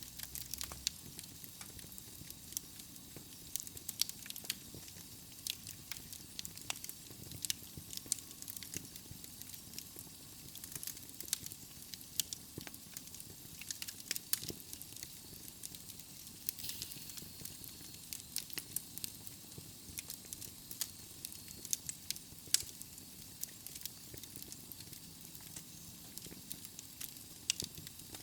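Wood fire burning in a fireplace: logs crackling and popping irregularly over a steady soft hiss.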